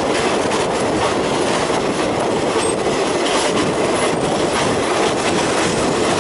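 Train running along the track, heard from inside a carriage at an open window: a steady rush of wheel-on-rail noise and air, with faint clicks from the rail joints.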